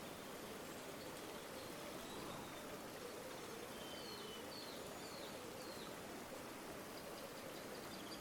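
River water flowing steadily, with a few faint bird chirps about halfway through.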